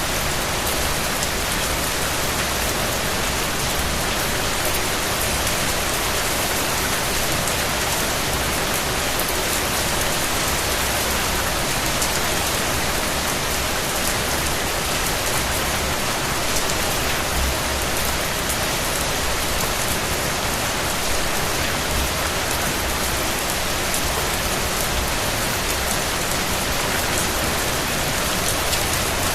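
Steady rain falling, an even hiss with scattered small droplet ticks.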